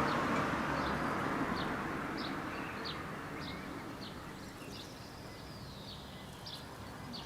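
A small bird calling with short, high, falling chirps about twice a second, over the rumble of a passing vehicle that fades away over the first few seconds.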